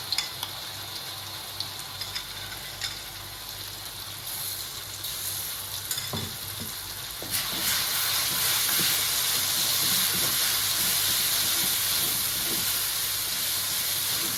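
Curry powder paste frying in hot oil in a pan, a steady sizzle while a spatula stirs, with light taps in the first few seconds. The sizzle gets louder about halfway through.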